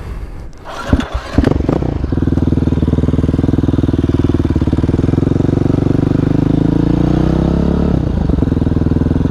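Motorcycle engine running steadily under way, its pitch rising between about six and eight seconds in, dipping briefly, then holding steady. A few sharp knocks sound in the first second and a half before the engine note settles.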